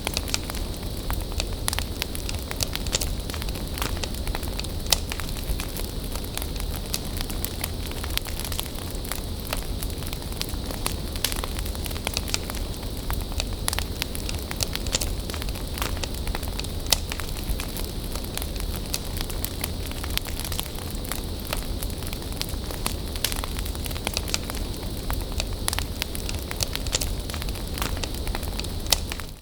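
Wood bonfire burning, crackling and popping irregularly over a steady hiss, with a few louder pops.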